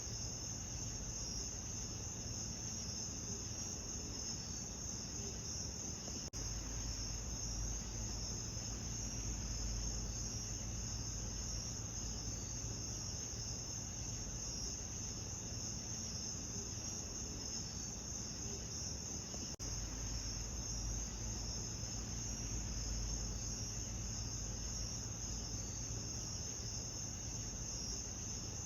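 Steady, dense, high-pitched chorus of night insects, like crickets, over a soft low rumble. It dips out briefly twice, about 6 and 19.5 seconds in, as a looped recording restarts.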